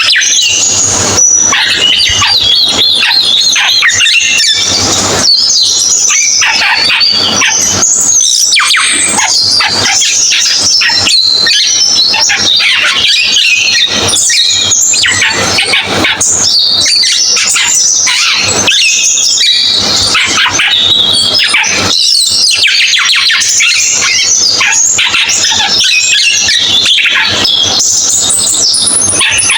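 A cucak keling singing in full voice: a loud, unbroken stream of rapid chirps, trills and warbled phrases, with no pause.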